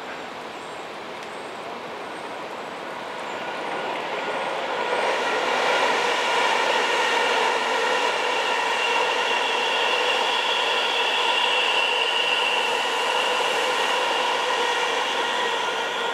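A train passing, growing louder over the first five seconds or so and then running steadily. It has a whine of several high steady tones over a rushing noise.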